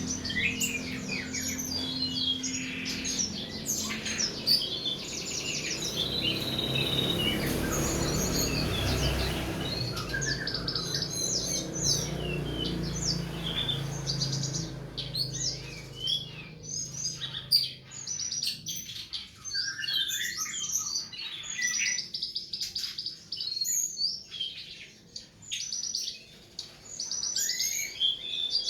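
Songbirds singing: a dense run of quick chirps, trills and whistled phrases, several calls overlapping, with a low rumble beneath them for about the first half.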